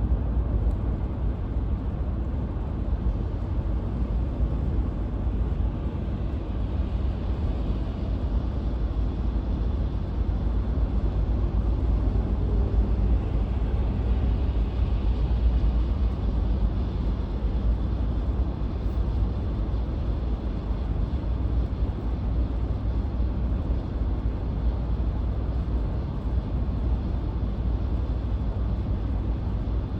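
Car being driven: steady road and engine noise with no change in pace.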